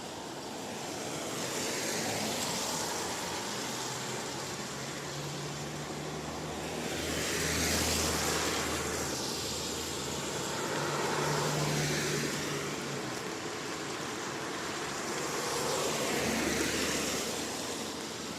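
Cars passing one after another on a wet road, their tyres hissing as each one swells up and fades away, about four in all, over a steady background of rain.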